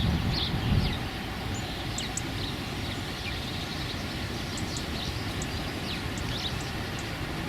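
Small birds giving short, high chirps scattered throughout, over a steady low rumble.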